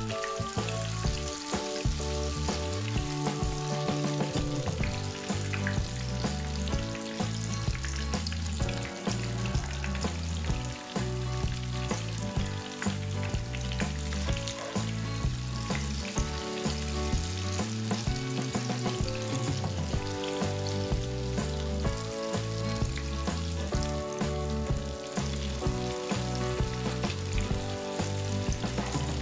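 Oil sizzling and crackling steadily as tofu-and-egg patties shallow-fry in a non-stick pan, with a wooden spatula now and then turning them. Background music with steady, stepping notes plays underneath.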